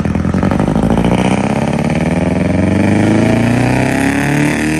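Straight-piped Honda Accord engine revving loudly through its open exhaust. The pitch climbs for about three seconds, then falls back near the end.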